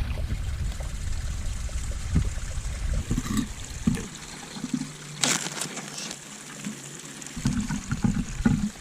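Water pouring and trickling at a camp cooking pot, with low wind rumble on the microphone for the first few seconds and one brief sharp knock about five seconds in.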